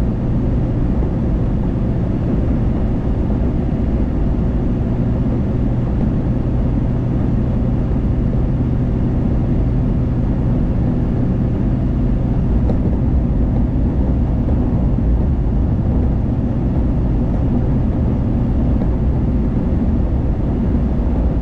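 Car driving at a steady speed, heard from inside the cabin: an even hum of tyres on the road and engine, with a low steady drone.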